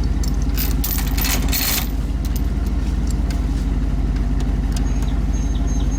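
Pickup truck engine idling steadily with an even low rumble, and a brief scraping noise about a second in.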